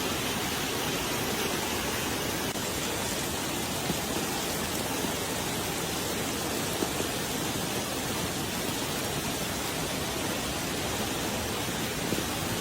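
Steady, even rushing of water, like heavy rain or fast floodwater, with a few small knocks.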